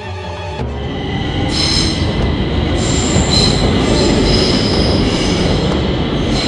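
Train running on rails: a loud rumble that builds over the first second or so, with high-pitched wheel squeal setting in about one and a half seconds in and holding.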